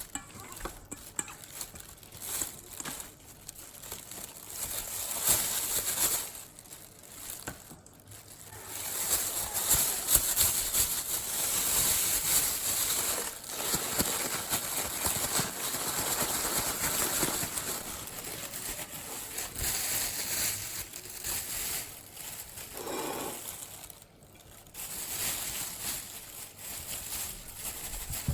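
Chicken pieces frying in hot oil: scattered crackles and pops at first, then a steady, bright sizzling hiss that eases off near the end.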